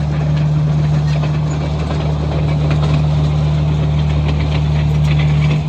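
Komatsu bulldozer's diesel engine running at a steady speed, with light rattles over the constant low drone.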